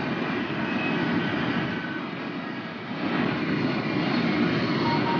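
High-speed electric train running at about 340 km/h: a steady rush of wind and wheel-on-rail noise, dipping slightly and then growing louder again about three seconds in.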